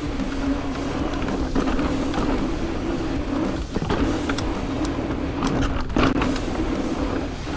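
Electric mountain bike's mid-drive motor whining steadily in boost mode under pedalling over a low rumble, cutting out briefly twice.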